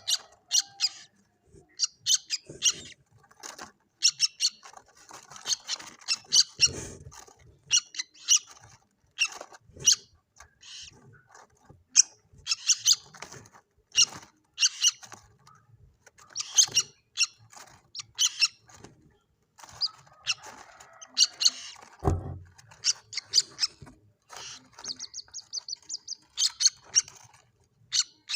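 White-breasted waterhen chicks calling: many short, high-pitched chirps in irregular clusters, with a quicker run of evenly spaced notes about three-quarters of the way through. A single low thud comes partway through.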